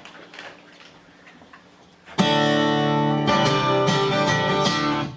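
Guitar strumming the opening chords of a song: after a quiet pause, a chord is strummed about two seconds in, struck again about a second later and left to ring, then stopped just before the end.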